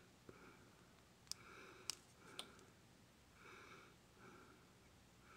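Near silence: faint breathing, with three soft clicks in the first half.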